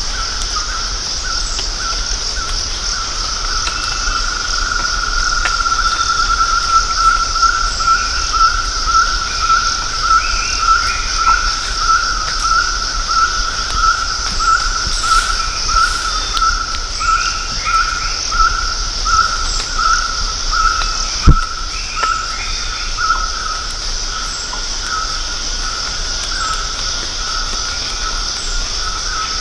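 Yellow-fronted barbet calling monotonously, the same note repeated over and over about once a second, over a steady high hiss of insects. A single sharp knock about two-thirds of the way through.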